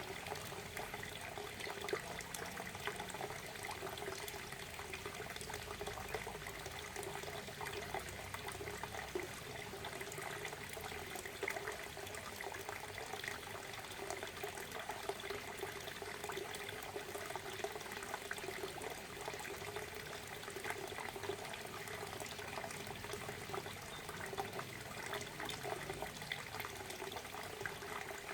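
Waterfall: a steady rush of falling water, level and unbroken, with many small splashes through it.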